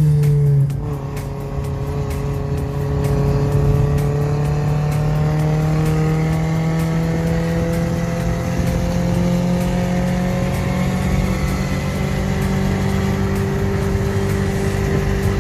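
Toyota 3SZ 1.5-litre four-cylinder engine in a VW bus, running under load. Its pitch dips about a second in, then climbs slowly and steadily as it gains speed.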